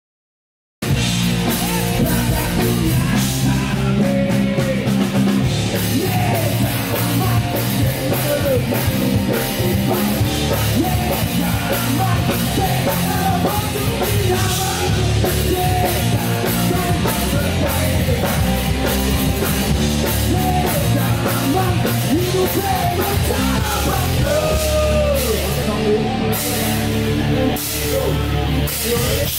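Punk rock band music with drums, guitars and a singing voice, starting abruptly about a second in after dead silence.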